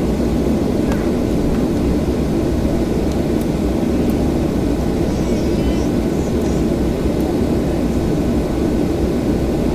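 Steady low cabin rumble inside a Boeing 737-800, its CFM56-7B engines running at idle.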